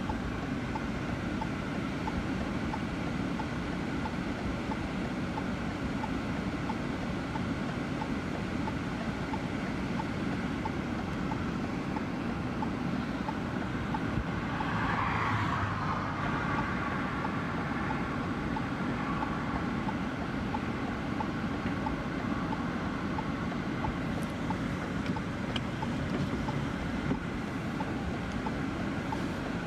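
Steady wind and vehicle rumble, swelling briefly about halfway through.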